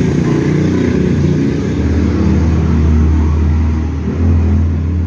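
Overlock (serger) sewing machine running at speed while stitching, a loud steady fast mechanical hum.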